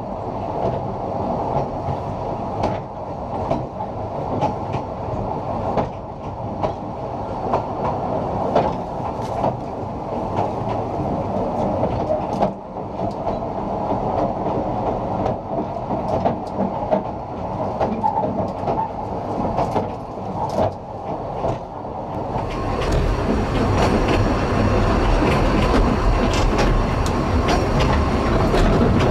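Corris Railway narrow-gauge train rolling along its 2 ft 3 in track: a steady running rattle and rumble of the coach, with irregular sharp clicks of the wheels over rail joints. About three-quarters of the way through, the rumble becomes louder and deeper.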